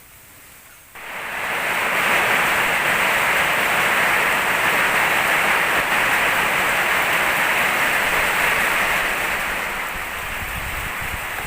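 Heavy storm rain pouring down, a steady loud rushing hiss that comes in suddenly about a second in and eases slightly near the end.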